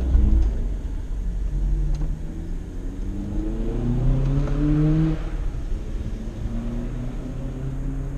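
BMW 3 Series engine heard from inside the cabin, pulling away and revving up: its note rises for a few seconds, falls back about five seconds in, then runs lower and steadier.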